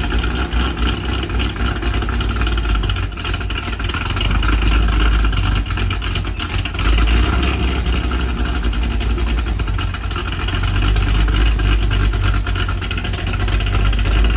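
Built 7-litre iron-block LSX V8 with a belt-driven turbo in a C6 Corvette Z06, running loud at idle just after a sub-freezing cold start. The level swells and dips, and the oil is still cold at about 41 °F.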